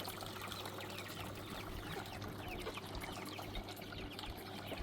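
Birds chirping in many short, quick falling notes over a steady hiss and a low hum.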